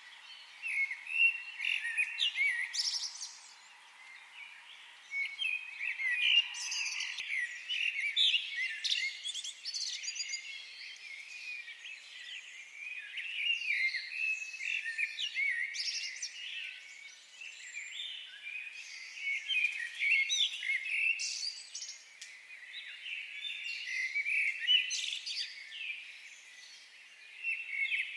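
Several songbirds chirping and warbling in a dense, overlapping chorus that swells and eases in bursts every few seconds. A faint steady trill or hum, typical of an insect or frog, runs under it and stops about seven seconds in.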